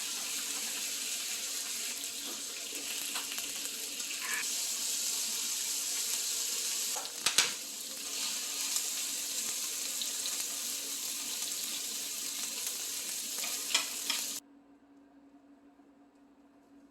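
Duck meat sizzling in a hot pan: a steady frying hiss with a few sharp clicks, cutting off abruptly about fourteen seconds in.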